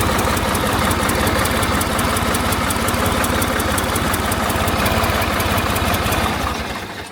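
New Holland tractor engine idling steadily, warmed up after a cold start, then switched off near the end and running down to a stop.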